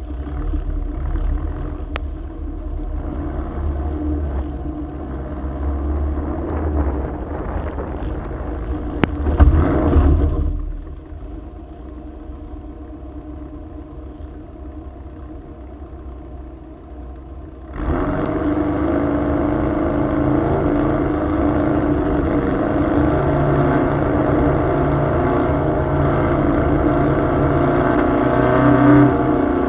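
Air-cooled Volkswagen flat-four engine running under way, rising to a loud rev about nine seconds in. It then drops quieter for several seconds and comes back suddenly louder and steady about eighteen seconds in.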